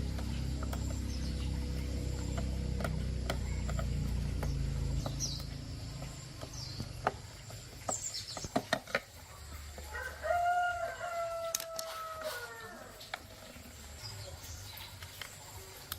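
A rooster crows once, a long held call about ten seconds in, after a few light taps and clicks. A low steady hum stops about five seconds in.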